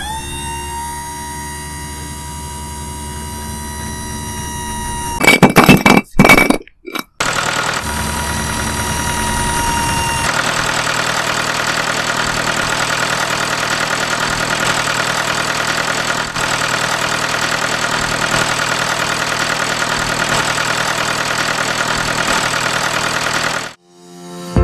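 A small engine running steadily with a fast even pulse, after a few loud short bursts about five to seven seconds in.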